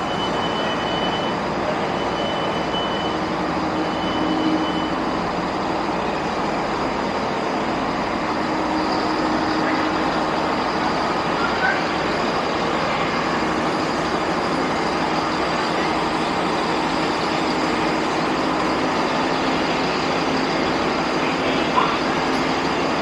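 Steady train noise throughout, with a faint hum, and a short high beep heard three times in the first few seconds.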